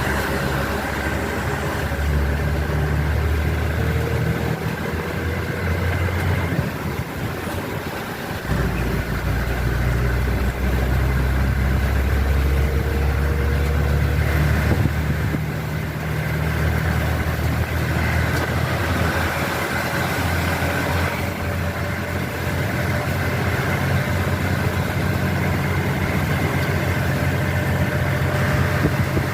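A car's engine running steadily at low speed, a deep hum with a few steady tones above it, under a steady hiss of heavy rain.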